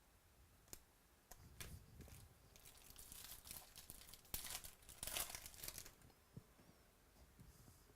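Foil wrapper of a trading-card pack being torn open and crinkled, an irregular crackling and tearing for a few seconds, after a single sharp click just under a second in.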